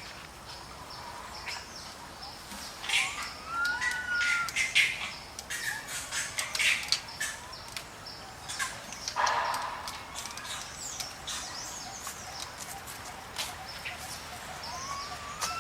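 Short whistled animal calls that rise and then fall, one about three seconds in and another near the end, over a run of sharp clicks and crackles in the middle, with one louder rustling burst about nine seconds in.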